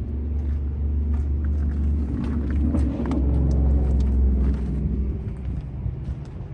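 Komatsu PC210LC hydraulic excavator's diesel engine running, getting louder around the middle, with scattered short metallic clanks and clicks.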